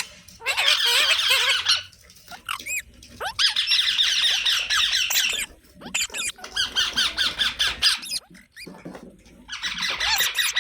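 A parrot squawking and chattering in rapid, high-pitched calls, in four spells with short pauses between.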